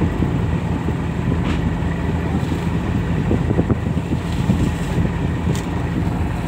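Boat engine running steadily, a constant low drone, with wind buffeting the microphone.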